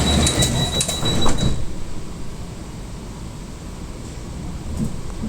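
Door-closing warning of an EP2D electric train: a rapid, high-pitched beeping that stops about a second and a half in as the sliding doors shut with a few clunks, the last one loudest. Then a steady low hum.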